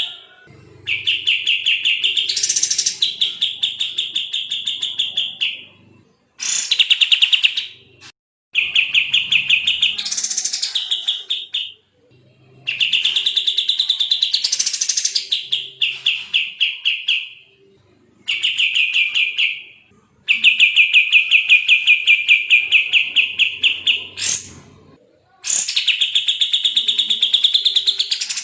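Kapas tembak singing continuously in long, fast trills: phrases of several seconds made of rapidly repeated chirping notes, about eight a second, with brief pauses between phrases and an occasional rising sweep.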